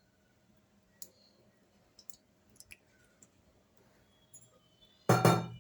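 Faint, scattered clicks and taps of kitchen utensils being handled, then a loud clatter near the end.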